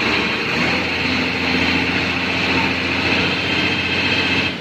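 Heavy truck engine running steadily under load, a loud continuous drone with hiss.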